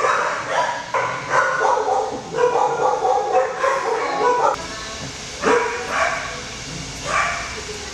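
Dogs barking, yipping and whining, several calls overlapping throughout.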